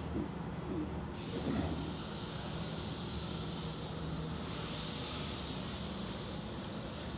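Steady low machine hum. About a second in, a steady high hiss starts and keeps going.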